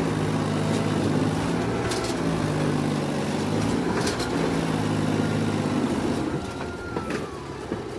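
Mahindra tractor's diesel engine running hard under heavy load as the tractor bogs down, its note sagging briefly twice before the sound drops away about six seconds in.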